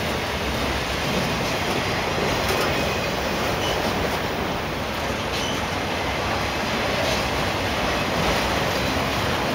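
Loaded autorack freight cars rolling past close by: a steady rumble of steel wheels on rail, with a few faint clicks and brief high squeaks from the wheels.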